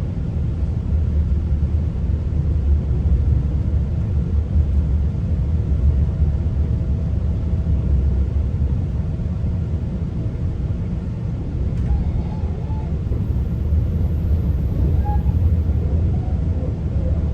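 Steady low rumble of a GO Transit passenger train under way, heard from inside the coach: wheels running on the rails. A single faint click comes about twelve seconds in.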